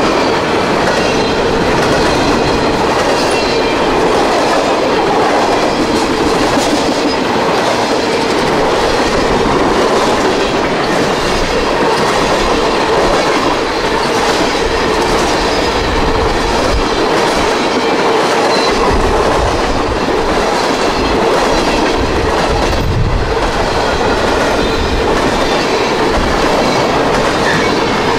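CSX freight train's cars passing close by: a steady, loud rumble and clatter of steel wheels on the rails.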